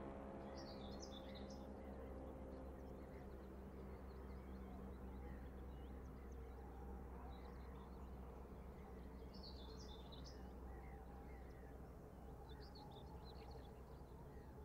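Faint ambience of birds chirping now and then, a few short twittering phrases, over a low steady rumble.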